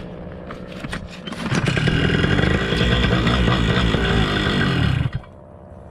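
Paramotor engine being restarted on the ground: a few clicks, then it catches about a second and a half in, runs loudly and steadily for about three and a half seconds and cuts out suddenly near the end. It starts but dies, a sign the engine is not running properly after its in-flight cut-out.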